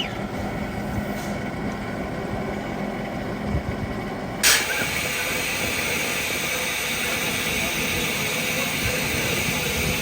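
Steam train running with a steady rumble; about halfway through a loud hiss bursts in suddenly and carries on.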